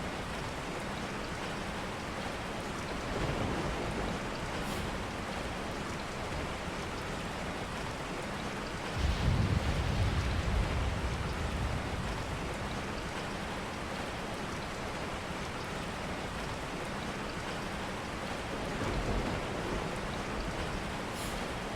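Steady rain falling, with three low rumbles: one about three seconds in, a louder one lasting a couple of seconds near the middle, and another near the end.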